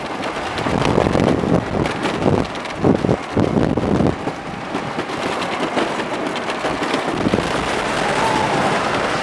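Wooden roller coaster train rumbling and clattering along its track, with irregular rattling knocks. A steady high tone starts near the end.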